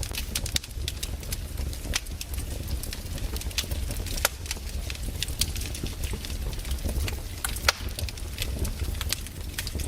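Wood fire crackling, with irregular sharp pops and snaps over a low steady rumble; two louder pops about four and eight seconds in.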